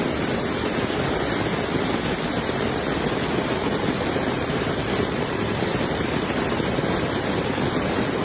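Heavy rain pouring down in a dense, steady, unbroken hiss of water.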